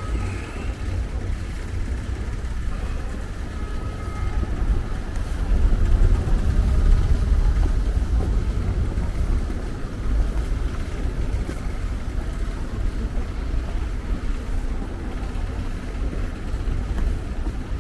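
City street ambience: a steady, low rumble of vehicle traffic that swells a little midway.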